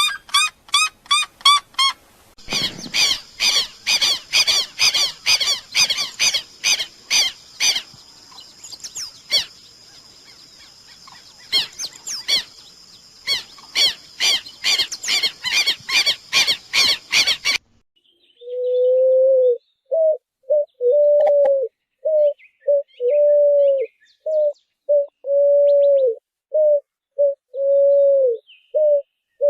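Birds calling, in separate recordings one after another. It opens with a fast run of repeated calls, then a dense series of chirps over a steady high hiss, which pauses for a few seconds and resumes. About two-thirds of the way in, a different bird takes over with low, pure, coo-like notes repeated in short phrases.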